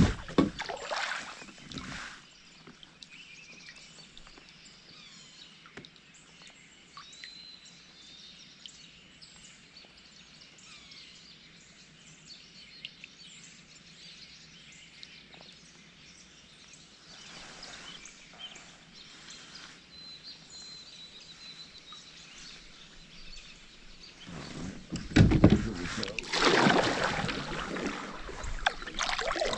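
Quiet outdoor river ambience with a few faint, high bird chirps. Loud rushing noise, like wind on the microphone, at the start and again through the last few seconds.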